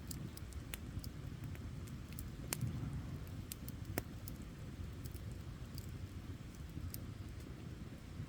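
Campfire burning with a low rumble and irregular sharp crackles and pops, two of them louder, about two and a half and four seconds in.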